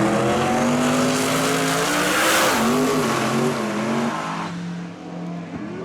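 Drag race car accelerating hard down the strip, its engine note climbing and then holding. It is loudest about two seconds in and drops away after about four and a half seconds.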